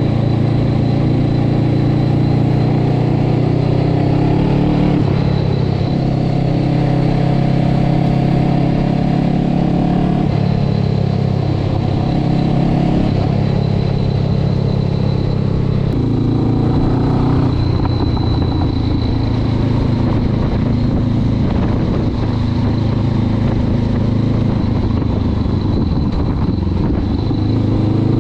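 Honda CB500X parallel-twin engine and exhaust running while riding, its pitch rising and falling several times with throttle and gear changes.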